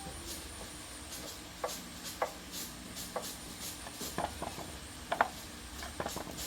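Scattered light clicks, taps and clinks of tools and small metal parts being handled during motorbike repair work, with a sharper knock a little after five seconds in.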